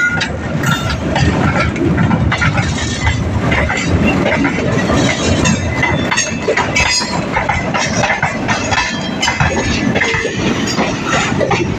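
Indian Railways passenger train running through a station close by, a steady loud rumble with wheels clattering over the rail joints as the coaches pass.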